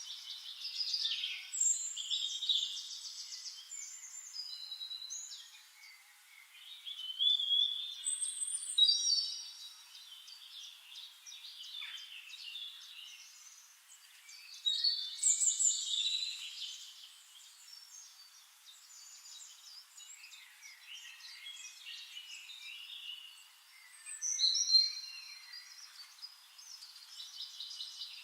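Songbirds singing in bursts of quick chirps, trills and short whistled notes, with quieter gaps between the phrases.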